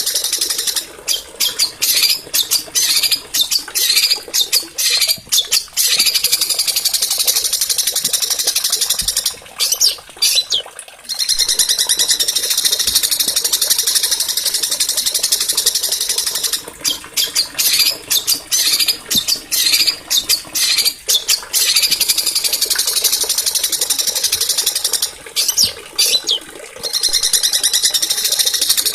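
Small songbirds singing a continuous high-pitched song of fast trills and chattering phrases, broken now and then by rapid stuttering notes with short breaks. This is a masteran, a bird-song recording used to tutor caged songbirds.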